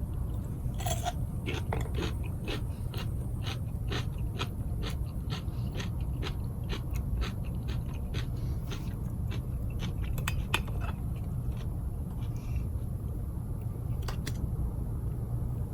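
A person chewing food close to the microphone, with a regular run of crunching bites about three a second that thins out about halfway through.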